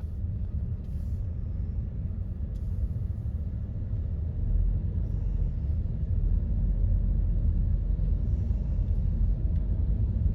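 Steady low rumble of a car on the move, heard from inside the car, growing a little louder about four seconds in.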